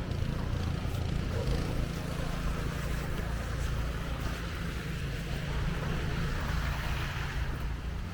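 An engine running steadily, a low even hum with a noisy wash over it.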